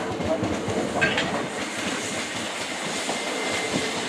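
British Rail Class 455 electric multiple unit running into the platform, its wheels clacking over rail joints, with a faint steady whine in the second half.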